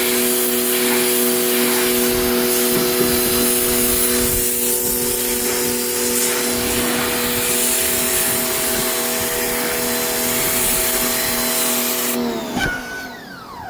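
A 2,500 PSI pressure washer runs with a steady pump-motor whine while its jet hisses onto dirty car carpet and seat fabric. Near the end the spray stops as the trigger is released, and the motor's whine drops in pitch as it spins down.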